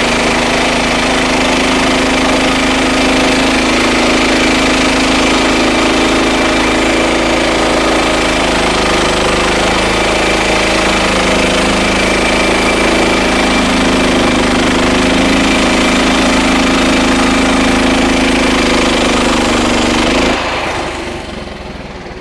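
Frontier OS31 portable bandsaw mill running through a cut in a red oak log: the engine drone and the blade cutting the wood, steady and loud. The sound falls away about 20 seconds in as the cut ends and the mill winds down.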